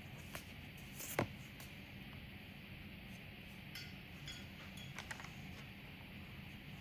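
Handling noise from trading cards and their packs on a table: one sharp tap or click about a second in, then a few faint ticks.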